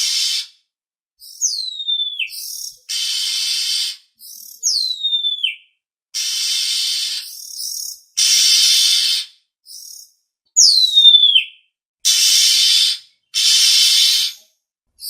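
Oriental magpie-robin calling: three clear whistles that slide steeply down in pitch, alternating with about six harsh, buzzy rasping notes of roughly a second each, with short gaps between calls.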